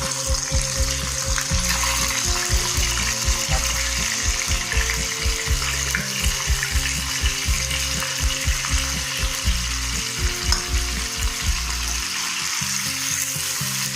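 Cornflour-coated chicken pieces deep-frying in hot oil on their second fry, a steady sizzle, over background music with a regular beat.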